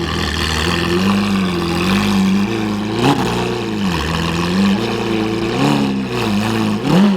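Car engine running near idle with repeated short throttle blips, its pitch rising and falling every second or two.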